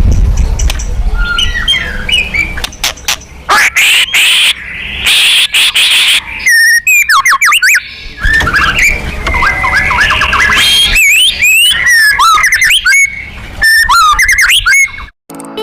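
White-rumped shama (murai batu) singing loudly: harsh rasping phrases, then rapid runs of whistled notes sliding up and down. This is a song used to provoke contest shamas into singing.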